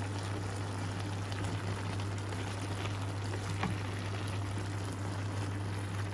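Meat and vegetables simmering and sizzling in a pan, a steady bubbling hiss with a few faint clicks, over a constant low hum.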